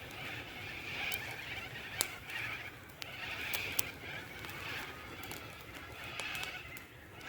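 Wood campfire burning, crackling with scattered sharp pops over a steady hiss.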